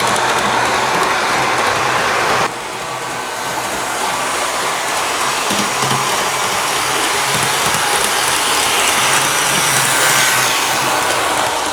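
HO scale model train running on its track: a steady whir of the locomotive's motor and the wheels on the rails. The level drops suddenly about two and a half seconds in, then slowly grows louder again.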